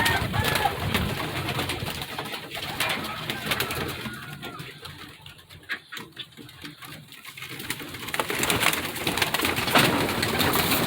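Penned birds cooing and calling, with many short clicks and flutters of movement. It dies down for a few seconds in the middle, then grows busier and louder toward the end.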